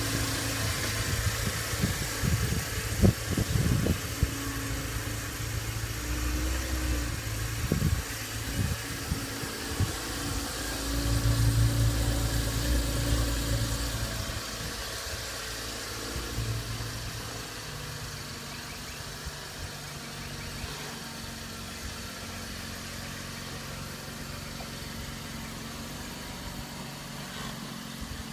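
2015 Chevrolet Camaro's engine idling through its exhaust, a steady low rumble that swells louder for a few seconds near the middle, then settles to a quieter, even idle for the second half.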